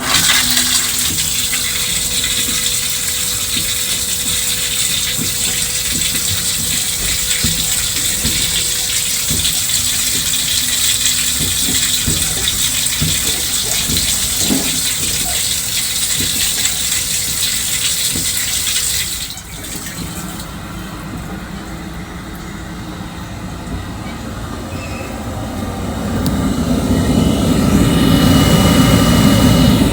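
Water rushing in a train lavatory, a loud steady hiss that starts suddenly and cuts off about 19 seconds in, leaving the train's running noise, which grows louder near the end.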